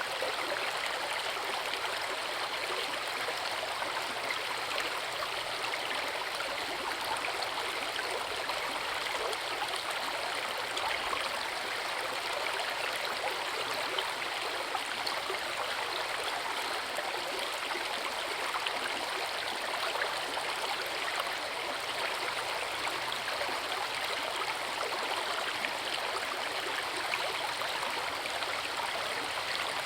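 Forest river running over a small waterfall: a steady rush of water with fine splashing and trickling, even in level throughout.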